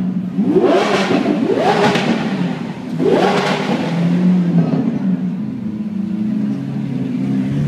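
Supercar engine revved sharply three times in the first few seconds, each rev a quick rise and fall in pitch, then left idling.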